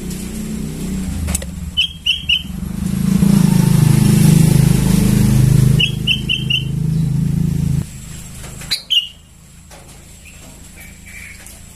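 A young sooty-headed bulbul calling in quick bursts of three or four short chirps, twice, then single calls later. A passing motor vehicle's low rumble swells through the middle, louder than the bird, and cuts off about eight seconds in.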